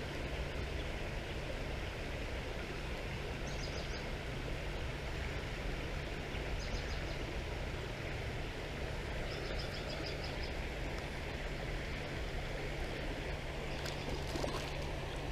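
Steady rush of flowing creek water. A few faint, short high chirps come through three times, a few seconds apart.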